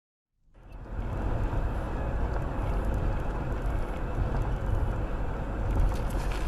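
Steady driving noise of a moving vehicle, road and engine rumble heavy in the low end, fading in about half a second in after dead silence.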